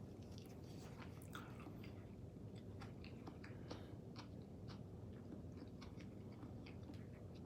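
Faint close-up chewing of soft food, with many small irregular mouth clicks.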